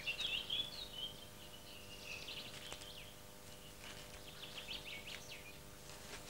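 Small birds chirping, in a string of short quick calls, faint over a steady background hiss.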